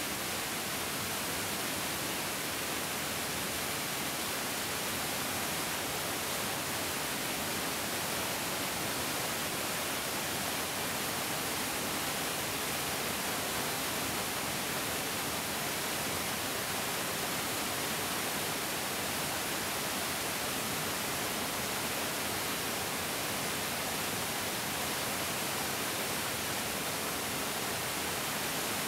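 A fast mountain stream rushing and splashing over rocks: a steady, even hiss of water, strongest in the high tones.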